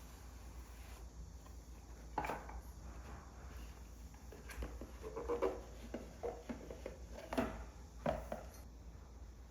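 Items being unpacked and handled: scattered knocks, taps and rustling, with sharp knocks about two seconds in and again near seven and eight seconds.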